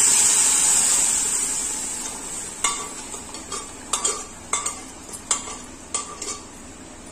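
Sizzling as cooked greens and dal pour into hot mustard-oil tempering in a steel kadhai, loud at first and dying away over the first couple of seconds. Then a steel spoon scrapes the last of the food out of the steel pressure cooker, clinking against the metal about twice a second.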